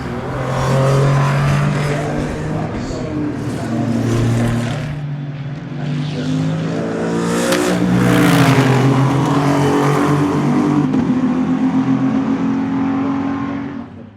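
Race car engines running hard, more than one at once, their pitch climbing and dropping with throttle and gear changes. One car passes loudly about eight seconds in, and the sound cuts off suddenly at the very end.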